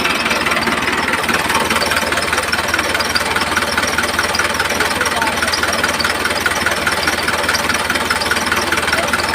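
A small electric motor running steadily with a fast, even buzz.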